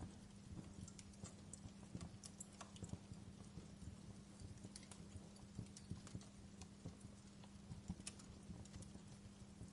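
Campfire crackling faintly, with irregular small pops and snaps of burning wood over a low steady hum.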